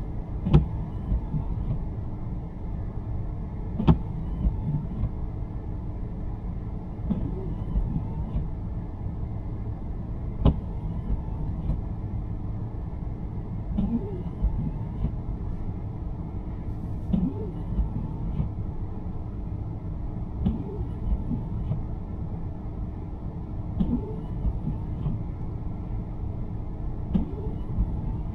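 Steady low road-and-engine rumble inside a 2023 Nissan Sentra's cabin on a snowy road. About every three seconds the windshield wipers make a short click and swish as they sweep.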